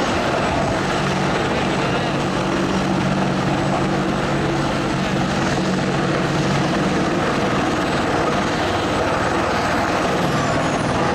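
Military helicopter's rotor and turbine engine running steadily, with a thin high whine that falls in pitch near the end.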